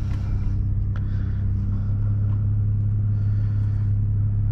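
2021 Toyota Supra with a downpipe and muffler delete running at low revs, a loud, steady, low exhaust note heard from inside the cabin with the windows up.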